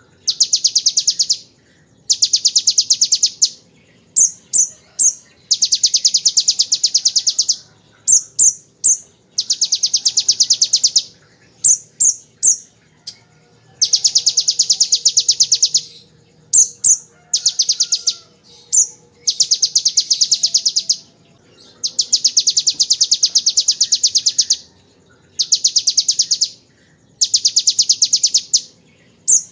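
Kolibri ninja (a sunbird) singing rapid, rattling trills copied from the bar-winged prinia (ciblek), the 'ngebren' machine-gun burst. The bursts come again and again, each lasting one to one and a half seconds, with short clusters of two or three high, sharp chips between them.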